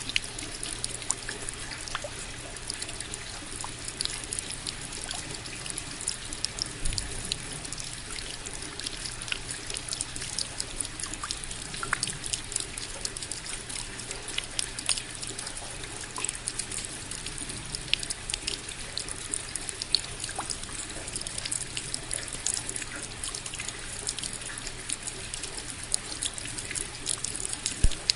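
Steady rain: an even hiss with many sharp, irregular drop ticks scattered through it.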